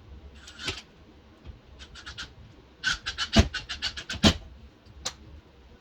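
A series of short scrapes and rustles, with two sharp knocks near the middle, about a second apart.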